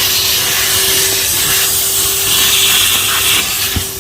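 Henry vacuum cleaner running with a steady motor whine, the hiss of its suction rising and falling as the nozzle works over the car's interior. There is a short low thump near the end.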